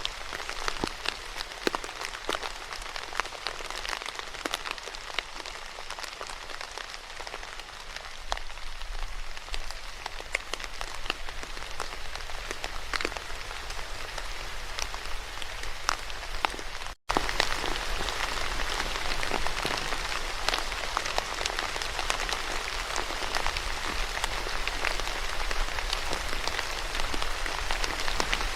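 Steady rain falling, with many separate drop hits heard through the continuous hiss. About 17 seconds in it cuts out for an instant, then the rain comes back a little louder and denser.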